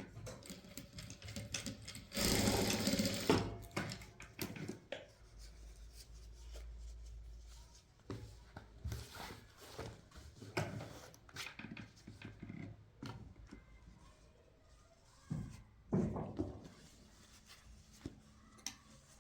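Sewing machine stitching in one short run of about a second and a half, starting about two seconds in, followed by scattered clicks and knocks of handling.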